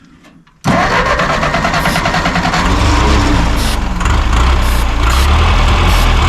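A 1946 Massey Ferguson tractor's engine bursting into life about half a second in, after three years without running, and then running, settling into a heavier, steadier beat a couple of seconds later.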